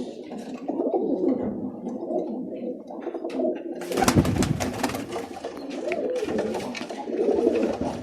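Birmingham roller pigeons cooing in a loft, low wavering calls throughout. From about four seconds in there is a run of rustling and knocking on top of the cooing.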